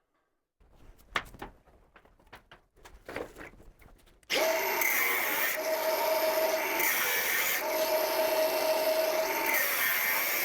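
A few handling clicks and scrapes, then a handheld power tool starts about four seconds in and runs steadily on wood, its pitch rising and falling slightly as it is worked.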